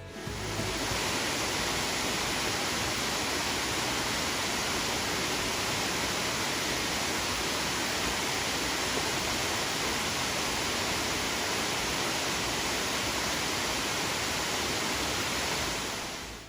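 Steady rushing of Soco Falls, a waterfall formed where two streams come together, with no change in pitch or rhythm; it fades in over the first second and fades out near the end.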